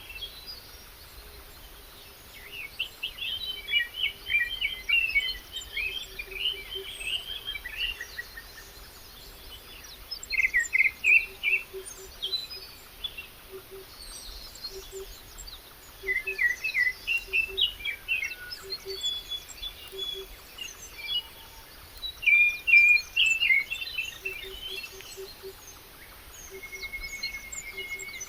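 Songbirds singing, quick chirping phrases that come and go every few seconds, over a faint steady outdoor hiss.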